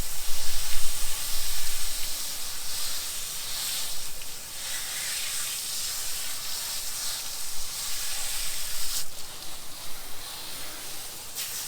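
Steady hiss of water spraying from a garden hose, loudest in the first two seconds.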